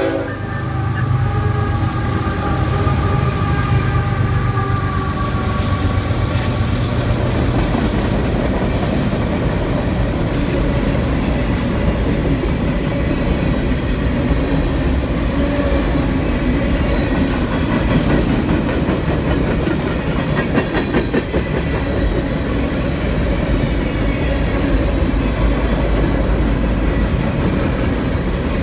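CSX freight train passing close by: the diesel locomotives' engines drone heavily for the first several seconds, then a long string of freight cars rolls past with a steady rumble and the clickety-clack of wheels over rail joints.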